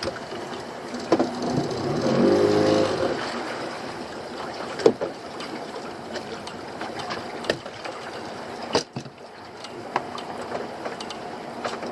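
Small boat's engine running, with a brief louder pitched burst about two seconds in, and scattered sharp knocks and clunks on the boat.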